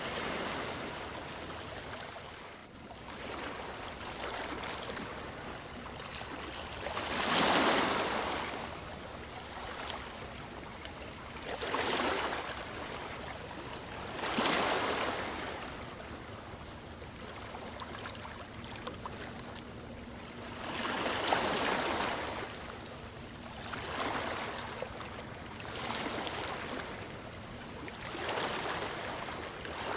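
Waves breaking and washing in, rising and falling in surges every few seconds; the biggest surge comes about a quarter of the way in.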